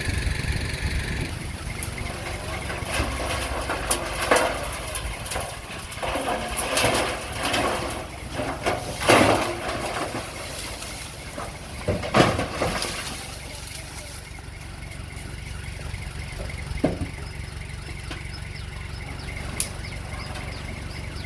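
Heavy earthmoving machine's engine running steadily, with a handful of louder harsh bursts in the first half, the loudest near the middle.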